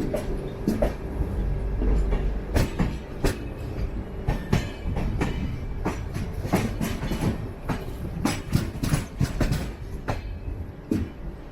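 Passenger train running, heard from aboard an LHB coach. The wheels clatter over the track in a quick, uneven run of sharp clacks over a steady low rumble.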